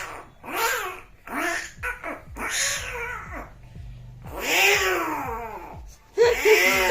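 Mouth imitation of cats fighting: a string of short meowing yowls that rise and fall in pitch, with one longer drawn-out yowl about halfway through.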